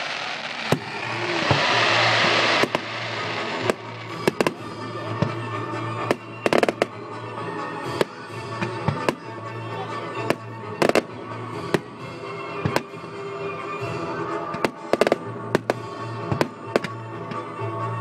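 Fireworks display: many sharp bangs of shells bursting, some in quick clusters, with dense crackling at the start that stops about three seconds in. Music plays underneath throughout.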